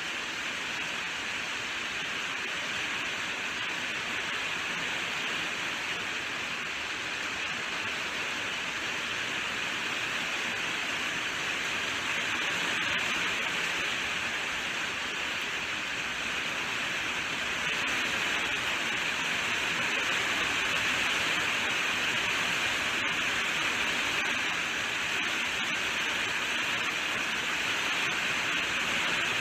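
Steady rainfall, a dense, even hiss of rain falling, rising a little in level partway through.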